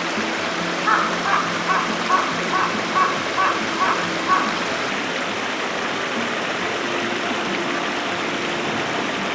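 A steady rushing noise like running water, with a run of about nine short, evenly repeated animal calls, roughly two a second, in the first half.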